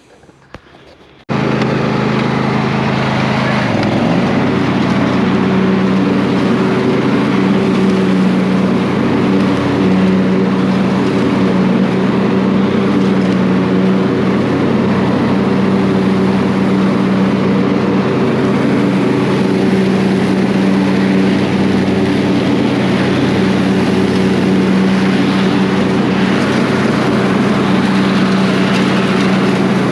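Husqvarna riding lawnmower's engine running steadily, cutting in abruptly about a second in, on its test run after a deck overhaul with new spindles, bearings, belt and blades.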